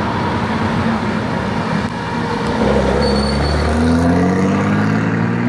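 Classic Marcos sports car engines running as the cars drive past, with one engine climbing in pitch as it accelerates from about two and a half seconds in.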